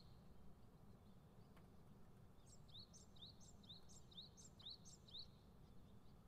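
Near silence with a faint small bird chirping: a run of about six short rising chirps, roughly two a second, starting about two and a half seconds in. There are also a couple of faint clicks.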